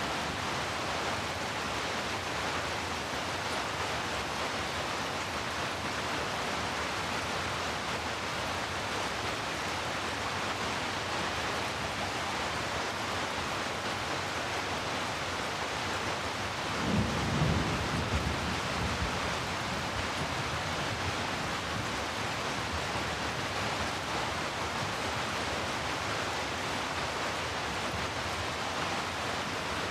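Steady rain falling, an even hiss without a break. A little past halfway a brief low rumble of thunder swells and fades.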